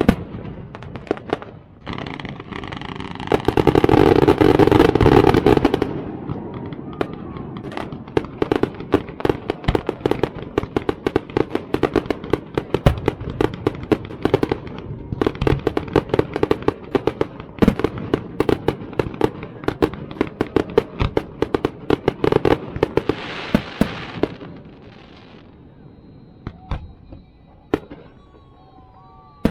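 Fireworks going off: a dense run of rapid pops and crackles, with a louder steady rush about four seconds in. The crackling thins out to a few scattered pops near the end.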